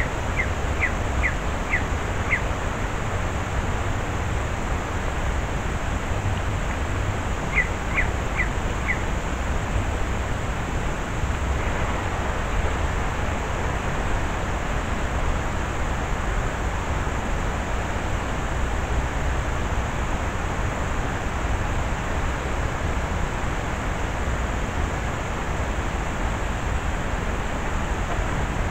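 Steady outdoor hiss with a low wind rumble on the microphone. A bird calls twice, first at the start and again about eight seconds in, each time a quick run of four or five short, high notes that drop in pitch.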